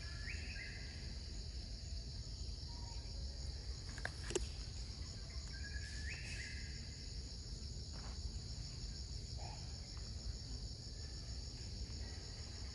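Steady high-pitched drone of a jungle insect chorus. A short call that steps up in pitch comes twice, near the start and about six seconds in, and a sharp click sounds about four seconds in.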